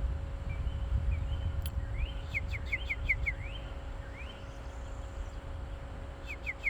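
A small songbird calling: a quick run of about five short, falling whistled notes a little past two seconds in, a few scattered notes around it, and another short run near the end. Underneath is a steady low rumble, louder than the bird.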